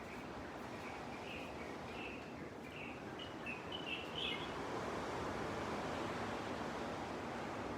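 Steady wash of gentle surf on a beach, with a small bird giving a quick series of short high chirps over the first half.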